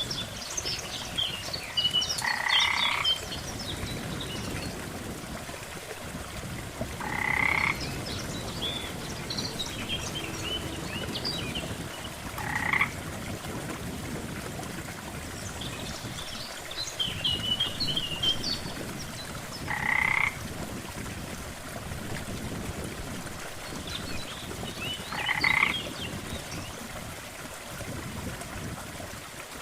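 Frogs croaking at a lake: five loud croaks come about every five seconds, each under a second long, with fainter high chirps between them over a steady low background.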